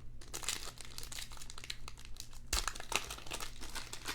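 Wrapper of a basketball trading card pack crinkling as it is torn open by hand: irregular crackles, with a louder rip about two and a half seconds in.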